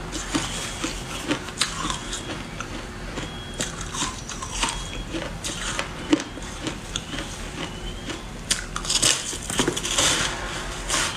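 A person biting and chewing ice: an irregular run of sharp crunches and cracks, thickest about nine to ten seconds in.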